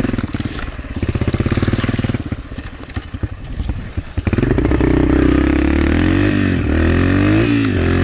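Yamaha TT-R125 pit bike engine running: choppy and uneven at first, then steadier and louder from about four seconds in as the throttle is held open, with the pitch dipping and rising again a few times near the end as the revs are cut and picked back up.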